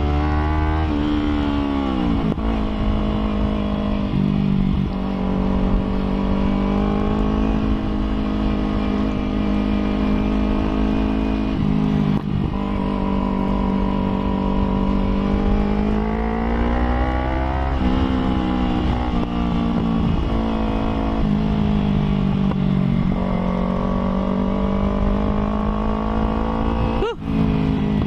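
Kawasaki Ninja ZX-25R's 250cc inline-four engine revving, its pitch climbing and falling again and again in a series of runs, with a brief drop-out about a second before the end.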